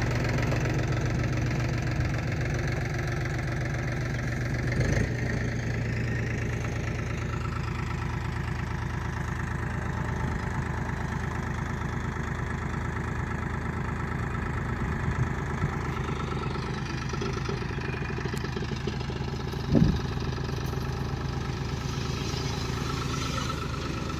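Diesel engine idling steadily with a low, even hum, with a short knock about five seconds in and another near twenty seconds.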